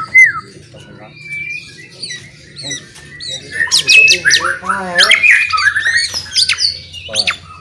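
White-rumped shama (murai batu) singing a loud, varied song of quick sweeping whistles and harsh squawky notes, sparse at first and then a dense, loud run through the middle.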